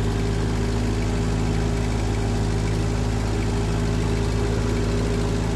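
1948 Ford 8N tractor's four-cylinder flathead engine running steadily at an even engine speed.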